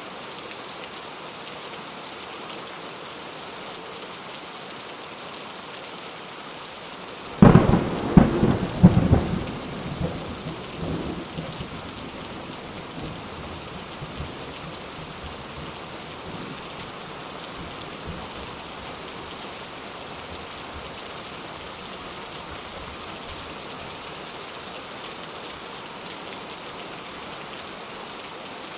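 Steady rain falling, with a sudden close thunderclap about seven seconds in: a few sharp cracks, then a rumble that fades over the next few seconds.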